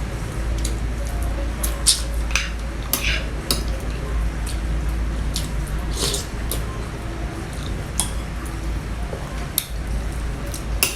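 Eating from a plate: cutlery clicking and scraping against the dish in short, irregular clicks, with wet chewing sounds, over a steady low hum.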